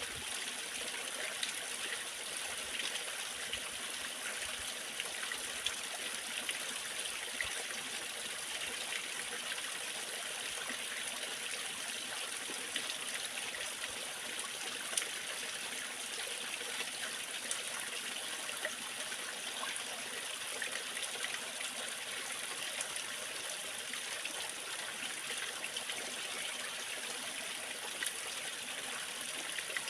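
A waterfall, its water falling and splashing in a steady, even rush.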